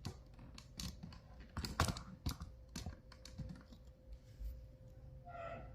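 Irregular light clicks and knocks of small hard items being handled as a bag of sewing accessories is opened and rummaged through. The clicks are busiest in the first half, and a short pitched sound comes near the end.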